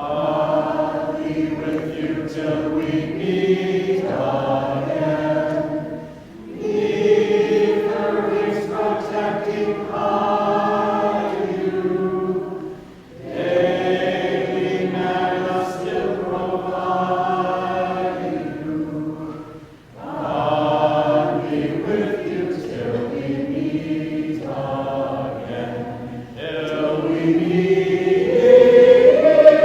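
A small vocal group singing a song together in several voices, in phrases of about six seconds with a short breath between each.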